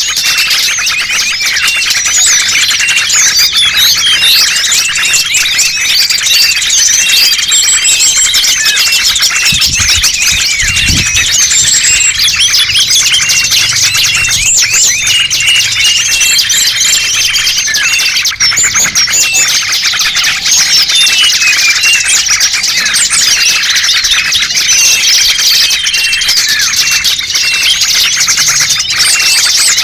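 A dense chorus of many small birds chirping and twittering all at once, with short steady whistles now and then: a pikat bird-lure recording, played to draw small wild birds in.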